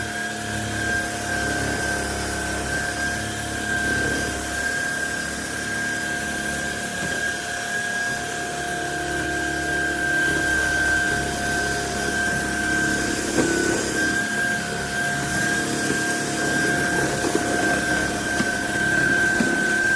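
Cordless vacuum cleaner motor running steadily, a high whine with a second, lower steady tone over a rushing hiss.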